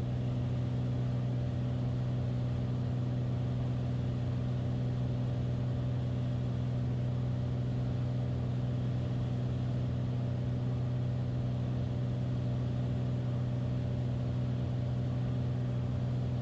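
Beechcraft Bonanza's piston engine and propeller droning steadily in the cockpit, at reduced power on the approach with the gear down.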